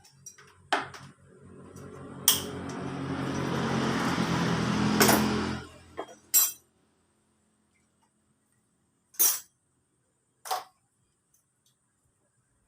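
Metal tools and engine parts clinking and knocking a handful of times. Early on, a steady hum with a whirring edge runs and grows louder for about four seconds, then stops.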